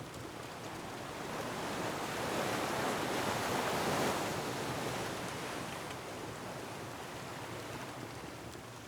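Ocean wave surging onto a rocky shore: a rushing wash of surf that swells to a peak about three to four seconds in, then slowly recedes.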